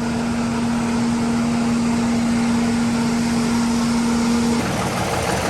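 Steady electric hum of a fuel pump refuelling a vehicle, over a constant rushing noise. The hum cuts off about four and a half seconds in.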